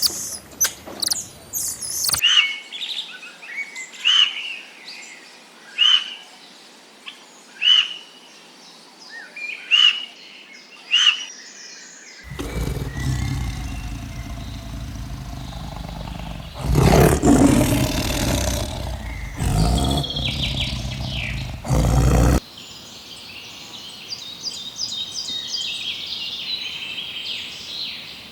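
Bird calls. Short calls repeat about every two seconds for the first ten seconds, then a loud noisy stretch of about ten seconds, then high, fast twittering near the end.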